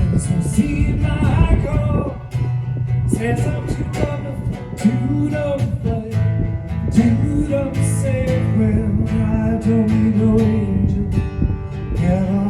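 Acoustic guitar strummed, with a voice singing in places.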